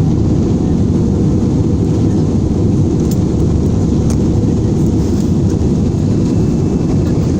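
Steady low cabin noise inside an airliner in flight: engine and airflow noise heard from a passenger seat, with a couple of faint clicks in the middle.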